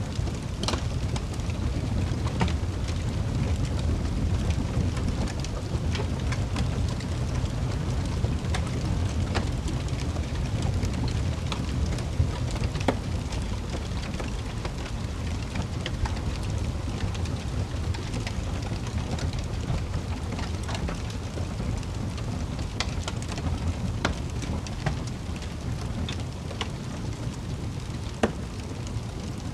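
Wood fire crackling in a fireplace: a steady low rumble with scattered sharp pops and snaps, a few every couple of seconds.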